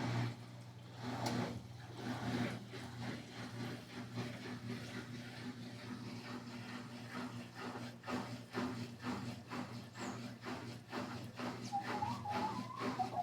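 WEG electric motor of an LES11 washing machine running with a steady hum, with regular clicks or knocks about twice a second in the second half.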